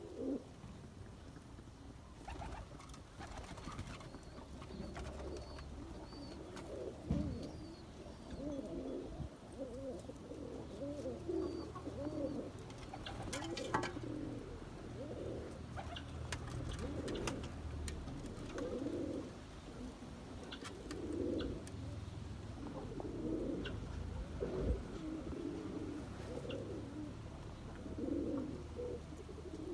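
Domestic pigeons cooing over and over, several low warbling coos overlapping, with a steady low hum underneath and a brief cluster of sharp clicks about halfway through.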